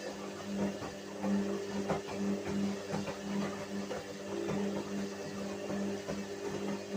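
Whirlpool washing machine running: a low motor hum that swells and fades about three times a second, with light knocks and rattles.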